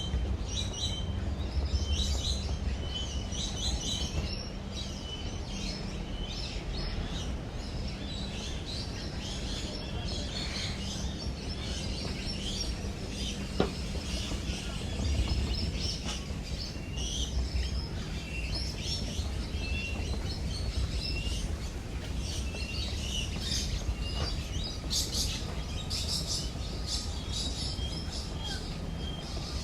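Many small birds chirping and calling over one another in quick, high, scattered notes, over a low steady hum. A single sharp click comes about halfway through.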